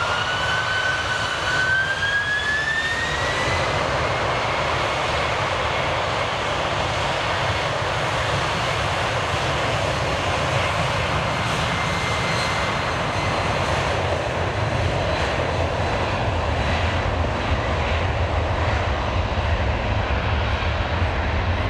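Heavy jet airliner engines: a whine rises in pitch over the first few seconds as they spool up, then settles into a steady roar. A deeper rumble grows stronger in the second half.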